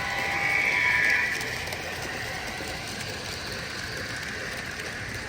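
Model train on a club layout, with a horn-like tone of several steady pitches loudest for about the first second and a half, then a steady hiss of running and room noise.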